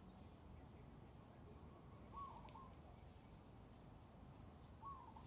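Faint outdoor ambience: a bird gives a short chirping call twice, about two seconds in and again near the end, over a steady high-pitched whine.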